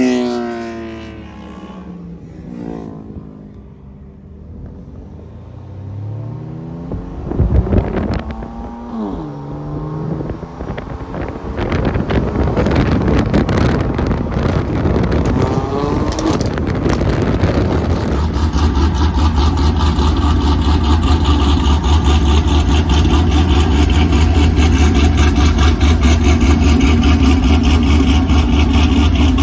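Car engines revving in street traffic. One rev falls away at the start, and another rises and falls about eight seconds in. From about eighteen seconds a loud, steady, low engine drone takes over.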